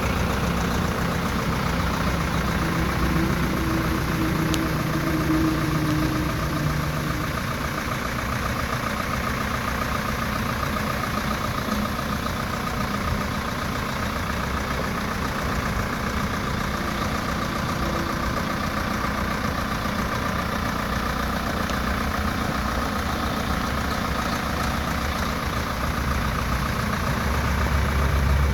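Tractor engine running steadily, a constant hum with a hiss over it, growing a little louder near the end.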